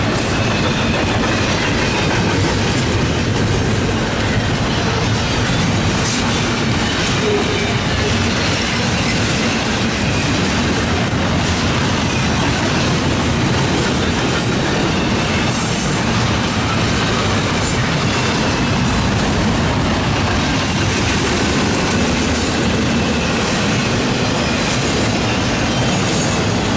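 Double-stack intermodal freight cars rolling past at speed: a steady rumble and clatter of steel wheels on rail, with a faint high wheel squeal running through it.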